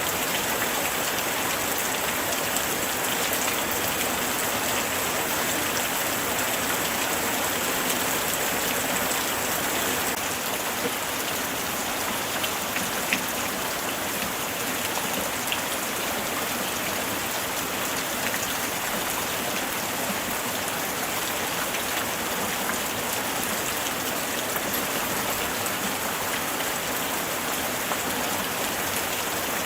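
Light rain falling steadily: an even hiss with many scattered individual drops tapping.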